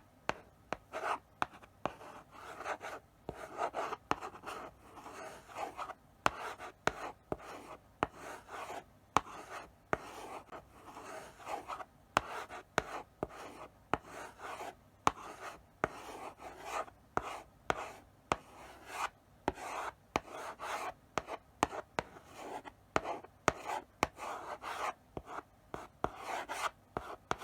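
Chalk writing slowly on a blackboard: short scratching strokes broken by small sharp taps as the chalk meets the board, in an uneven, unhurried rhythm.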